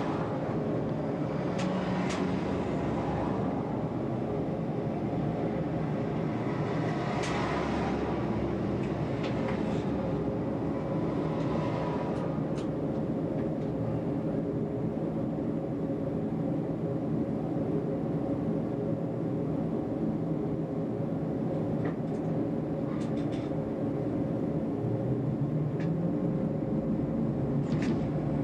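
Tram running along the track, heard from the driver's cab: a steady rumble of motors and wheels on the rails with a constant whine. Now and then there is a brief sharp click or squeal.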